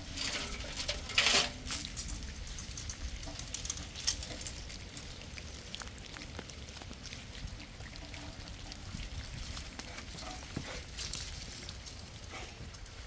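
Rain pattering steadily on surfaces, a fine crackle of drops, with a louder brief rush of noise about a second in.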